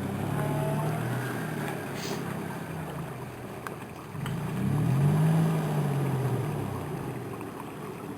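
Off-road vehicle's engine working at low speed while crawling over rocks; the revs climb about four seconds in, then ease back down.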